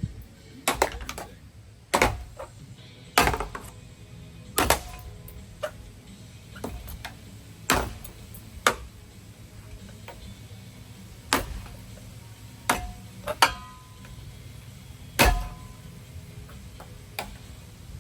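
A ceiling fan being knocked apart: irregular sharp knocks and clanks, about a dozen, some with a short metallic ring, over a steady low hum.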